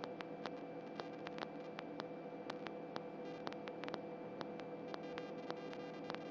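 Faint steady electrical hum with a steady mid-pitched tone, dotted with scattered faint ticks and clicks.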